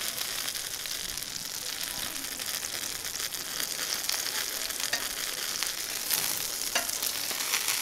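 Food frying in a hot pan: a steady sizzling hiss with scattered crackles.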